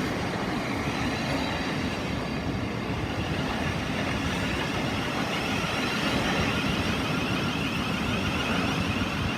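Electric multiple-unit train moving through the station: a steady rumble and hiss of wheels on rail, with a faint repeating whine higher up from a few seconds in.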